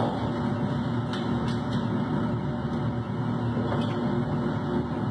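A steady low mechanical hum, with a few faint clicks of revolver parts being handled and taken apart.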